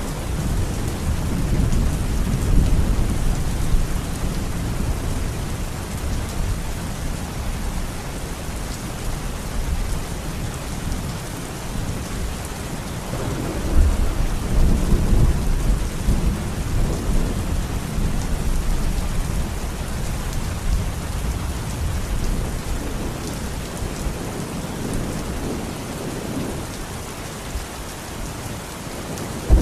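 Steady heavy rain falling, with low rolling thunder rumbling underneath. The thunder swells louder about halfway through.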